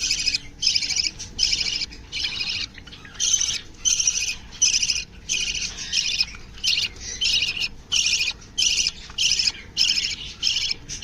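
Small cage birds calling in a steady run of short, repeated calls, about two a second.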